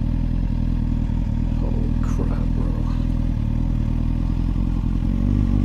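Motorcycle engine running at a steady speed while being ridden, a low, even hum with no revving.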